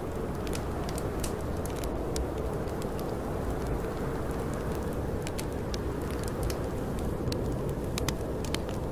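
Steady low snowstorm wind with a wood fire crackling, sharp pops scattered irregularly throughout.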